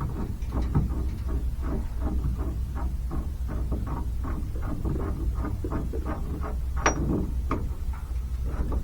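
Hand-tool work on a rusty brake master cylinder: short, irregular taps and scrapes of metal, about two or three a second, with one sharper click about seven seconds in, over a steady low hum.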